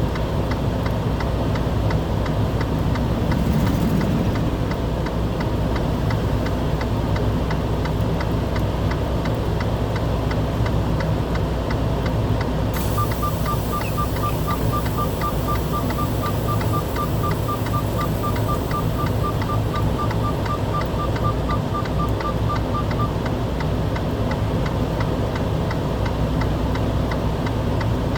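A vehicle engine idles with a steady low rumble. About halfway through, a series of short, evenly spaced electronic beeps, about four a second, sounds for roughly ten seconds and then stops.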